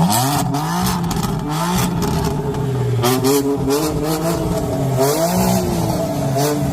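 Car engine revved over and over, its pitch climbing and dropping several times, with a sudden start.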